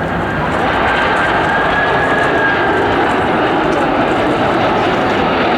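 Airliner's engines running loud as the aircraft passes close by: a steady rush with a faint high whine, building slightly at first and then holding.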